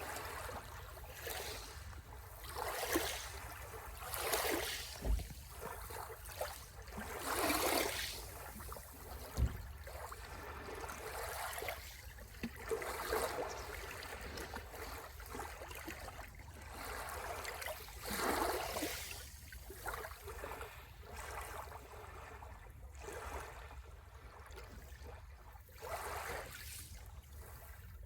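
Sea waves washing onto the shore again and again, each a short surge of hiss every second or few, over a steady low rumble.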